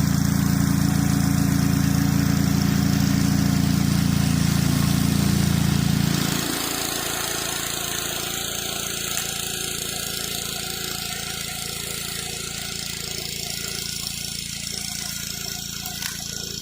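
Pressure washer engine running steadily, then cutting out abruptly about six seconds in, leaving a quieter steady noise.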